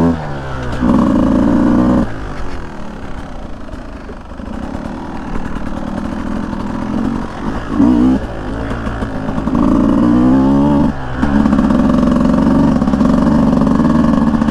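Beta 200 two-stroke dirt bike engine revving up and down under throttle while riding. It eases off for a few seconds near the start, then picks back up and holds higher revs after a brief drop about eleven seconds in.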